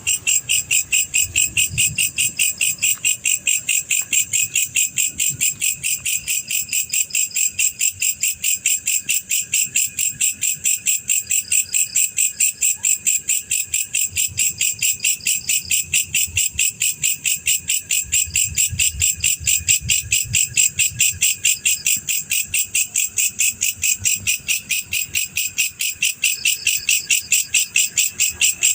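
Male black field cricket calling: loud, high-pitched chirps repeating evenly at about four a second without a break.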